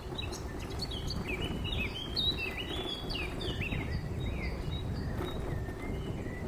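Small birds singing, a busy run of short falling chirps that thins out towards the end, over a steady low rumble.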